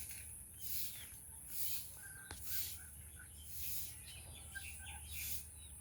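Birds chirping in short notes and quick gliding whistles, over a steady high-pitched hiss with a louder hissing swell about once a second.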